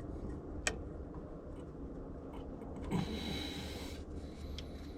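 Quiet hand-work noises of a hydraulic line being fitted: a sharp metallic click under a second in, then a brief hissing rustle around three seconds, over a low steady rumble.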